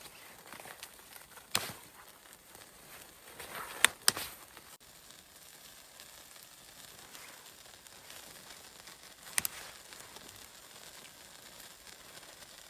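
Wood fire crackling steadily, with sharp pops about a second and a half in, twice in quick succession around four seconds in, and once more about nine seconds in.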